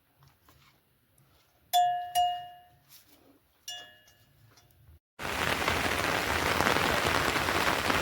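Three sharp metallic clinks that each ring briefly, then an abrupt cut about five seconds in to steady heavy rain.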